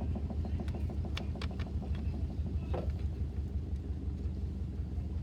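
Washing machine drum spinning, with a steady low hum. A rapid, regular ticking from the turning drum slows and fades out by about halfway through, with a few sharp clicks along the way.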